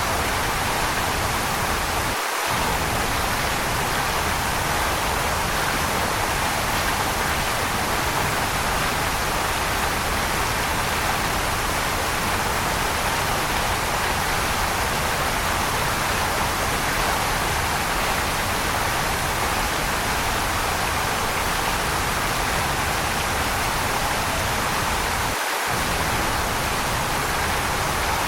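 Waterfall: a steady rush of falling water, with its low rumble cutting out for an instant twice.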